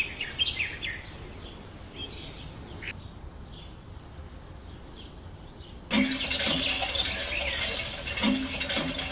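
Faint bird chirping, then about six seconds in a louder, steady rushing noise starts suddenly.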